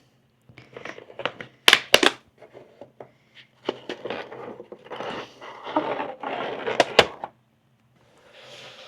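A wooden walnut display frame being handled: sharp clicks and knocks about two seconds in and again around seven seconds, with rubbing and rustling in between.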